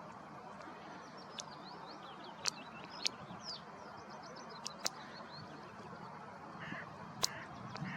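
Small bird twittering in quick strings of high chirps, over a steady background rush, with several sharp clicks scattered through.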